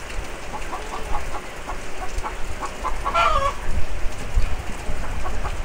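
Steady rain falling on wet earth, with a chicken clucking in short notes and giving one drawn-out call that falls in pitch about three seconds in.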